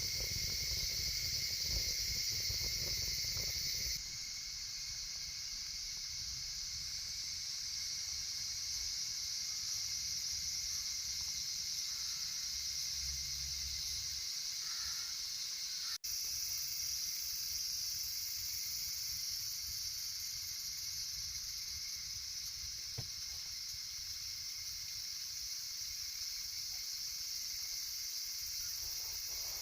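Steady, high-pitched chorus of insects chirring in the woods, with a low rumble in the first few seconds. The chorus changes abruptly twice, about four and sixteen seconds in, and there is a single faint tick past the middle.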